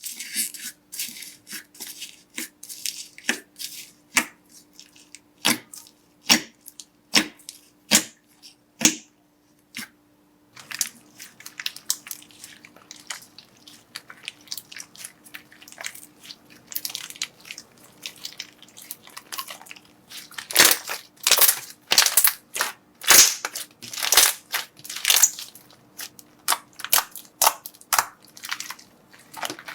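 Slime being squeezed and pressed by hand, giving a run of sharp crackling pops. The pops come about one a second at first and grow denser and louder in the second half.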